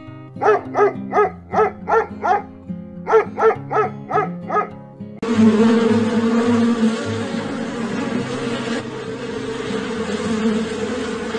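Background music under a rapid series of short animal calls, about three a second. About five seconds in, it cuts suddenly to a steady buzzing of flying insects.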